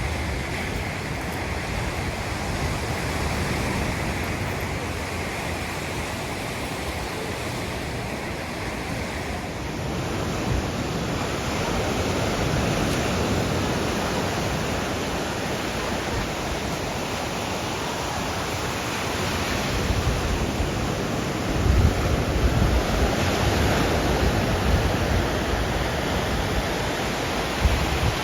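Sea surf washing onto the beach, a steady rushing noise, with wind buffeting the microphone in low rumbling gusts that grow stronger about three-quarters of the way through.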